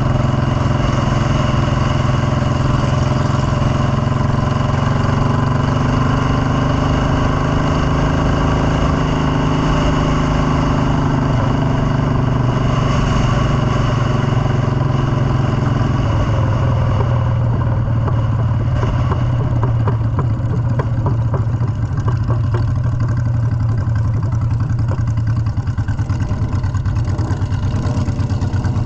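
Motorcycle engine running steadily under way; about two-thirds of the way through its note settles into a lower, more throbbing pulse.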